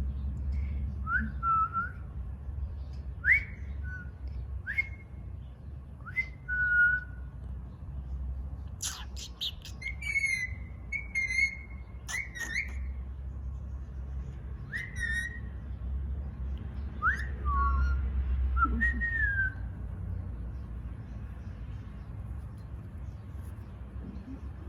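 Indian ringneck parakeet giving short whistled calls, each a quick upward sweep into a brief held note, repeated every second or two, with a few harsher, sharper notes near the middle. The calls stop about twenty seconds in, leaving a steady low hum.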